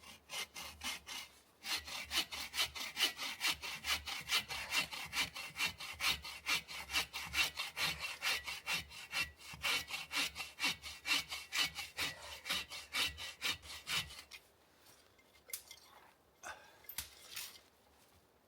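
Hand saw cutting through a small dead tree in quick, even back-and-forth strokes that stop about three-quarters of the way through, followed by a few scattered snaps.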